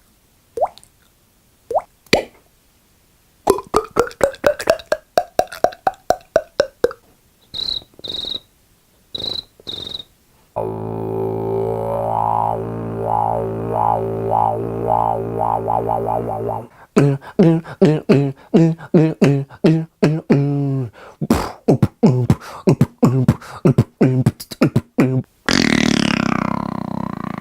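A person making a string of beatbox-style mouth sound effects. It opens with a few drip-like pops, then a rapid run of clicks whose pitch rises and falls, and a few short high beeps. Next comes a steady buzzing hum lasting about six seconds and pulsing about twice a second, then another fast rhythmic run of clicks, and swooping whistle-like glides up and down near the end.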